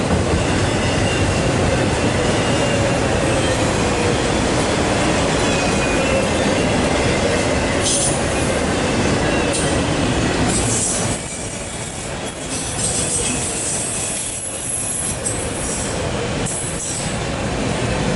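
Empty autorack freight cars rolling past close by: a steady, loud rumble of steel wheels on rail, with a thin wheel squeal that comes and goes. The sound eases off a little about eleven seconds in.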